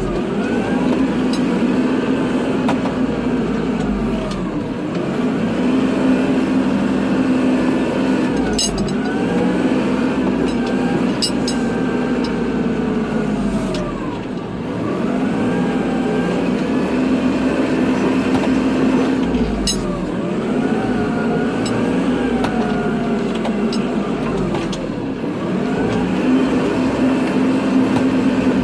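Kubota tractor's diesel engine running under load while plowing snow, its pitch rising and falling every few seconds as it pushes and backs off. A few sharp clanks from the blade and hitch come now and then.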